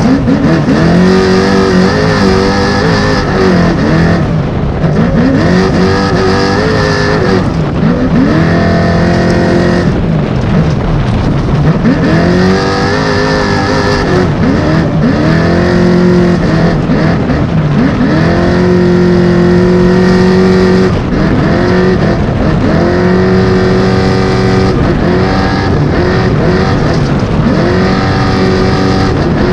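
A 905-horsepower all-wheel-drive trophy truck's engine at race pace, heard loud from onboard. Its pitch climbs and drops back every one to two seconds as the driver accelerates and lifts.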